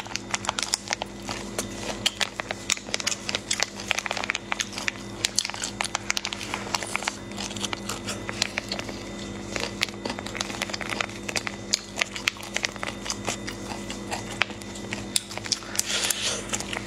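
Close-up eating sounds: biting into and chewing saucy food, a dense, irregular run of wet clicks and smacks, with the plastic bag it is held in crinkling. A steady low hum runs beneath.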